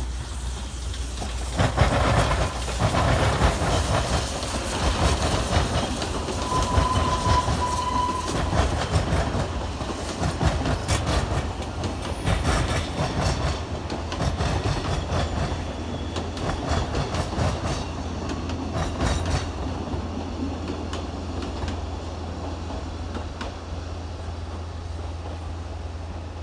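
Narrow-gauge Welsh Highland Railway carriages rolling over the flat crossing with the standard-gauge line. The train rumbles in about two seconds in, with a brief high-pitched tone around seven seconds. From about ten to twenty seconds in the wheels clatter in many sharp clicks over the crossing's rail gaps, then the train's rolling fades.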